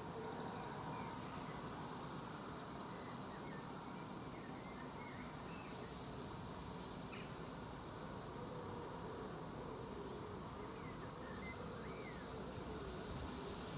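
Garden birds chirping and twittering in scattered short runs of high notes, the loudest about eleven seconds in, over steady low background noise.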